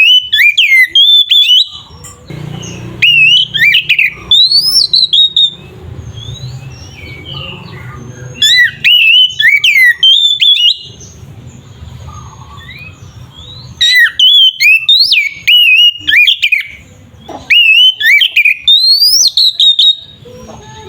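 Oriental magpie-robin (kacer) in full song, singing loudly in five bursts of fast, varied rising and falling whistled and harsh notes with short pauses between. This is the intense, non-stop singing that keepers call gacor, used as a lure to provoke other magpie-robins.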